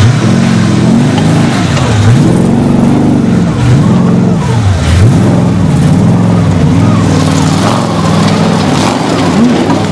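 Off-road 4x4 engine revved up and down over and over, about once a second, as the vehicle crawls up a rocky slope under load.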